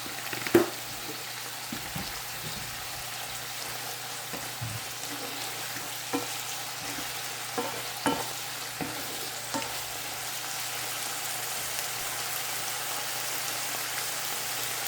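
Mushroom stir-fry sizzling steadily in a pan, with the spatula knocking and scraping against the pan now and then; the loudest knock comes about half a second in.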